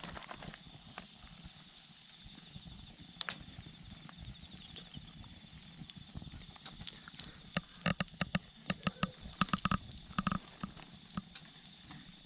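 Wood campfire crackling, with scattered sharp pops that come thick and fast in the second half, over a steady high chirping of autumn insects.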